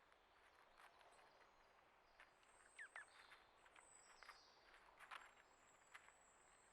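Faint outdoor ambience: a few thin, high bird calls and a quick pair of chirps about three seconds in, with scattered soft ticks and taps.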